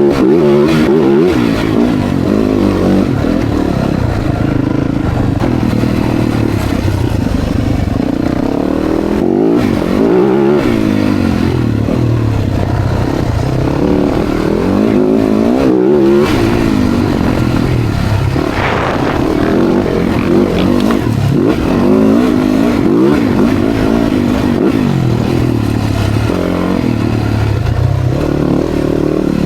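Dirt bike engine being ridden hard, revving up and dropping back over and over as the rider throttles on and off.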